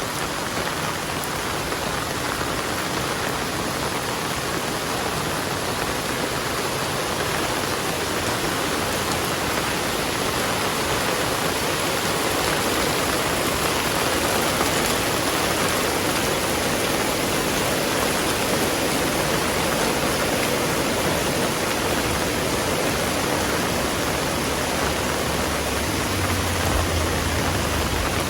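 Heavy rain falling steadily, a dense, even hiss of rain on surfaces. Near the end a brief low rumble rises under the rain.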